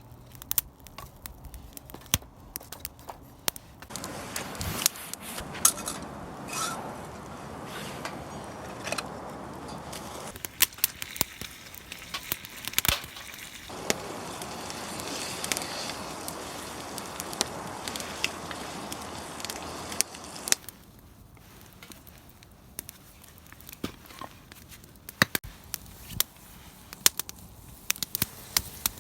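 Wood fire burning in a small portable fire pit, crackling and popping with many sharp snaps throughout. A steady hiss joins in from about four seconds in and stops abruptly about two-thirds of the way through.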